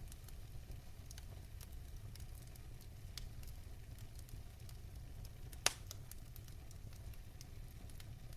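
Fire crackling in a fireplace: scattered small pops over a steady low rumble of flames, with one sharp, louder pop a little over halfway through.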